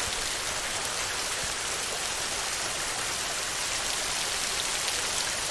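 Heavy rain on a tin roof: a steady, dense patter.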